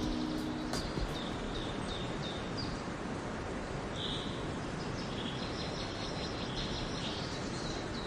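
Songbirds chirping, many short high calls repeating over a steady background rush of noise. A held tone with overtones stops under a second in.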